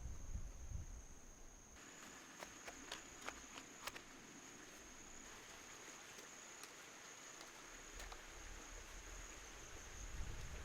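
Insects, likely crickets, trilling steadily on one high note, with a handful of short clicks or snaps about two to four seconds in and low wind rumble near the start and end.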